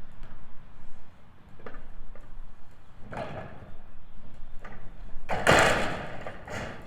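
Knocks and clatter of work on a metal building's roof, with a louder rattle of metal roofing about five seconds in.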